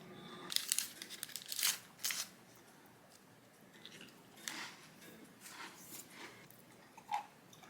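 A few short, crisp crinkling or snipping noises in separate bursts spread over several seconds, like close-up handling sounds.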